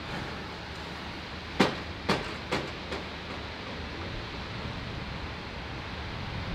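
A train on a steam railway: a steady rumble with four sharp knocks about half a second apart, each fainter than the one before.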